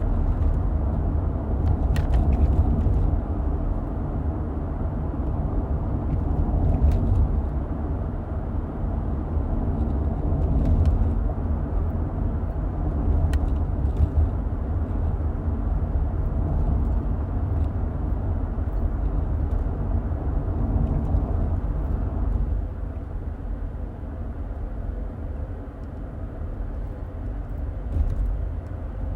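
Car driving on the road, heard from inside the cabin: a steady low rumble of tyres and engine with a few faint clicks and knocks. It eases off a little about two-thirds of the way through.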